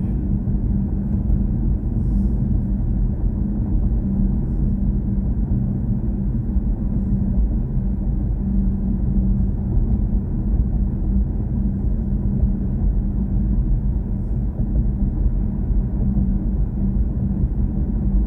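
Steady low rumble of road and tyre noise inside the cabin of a moving BMW i4 M50 electric car, with a faint steady hum underneath.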